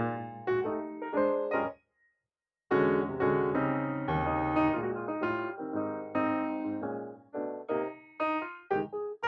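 Background piano music, a sequence of notes and chords that stops for about a second, two seconds in, then resumes.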